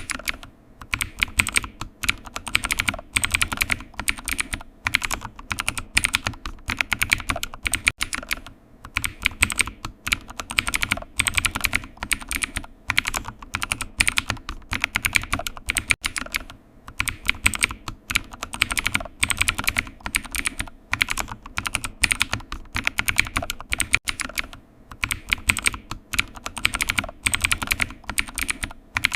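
Typing on a computer keyboard: fast runs of keystrokes broken by short pauses every second or two.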